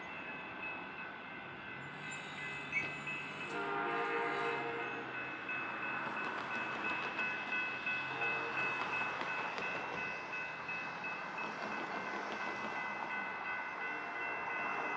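Amtrak passenger train with a Siemens Charger diesel locomotive moving away, its engine running with a low hum. A short horn note sounds about three and a half seconds in, over a steady high ringing tone.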